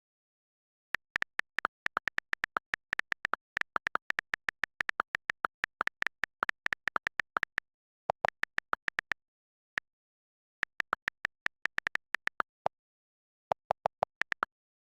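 Rapid keyboard typing in bursts of quick clicks, with short pauses between runs and dead silence between keystrokes.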